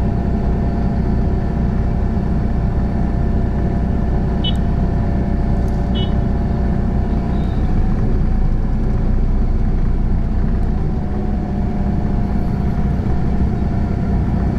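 A motor vehicle's engine running steadily with a constant low hum. Two brief high chirps come about four and a half and six seconds in.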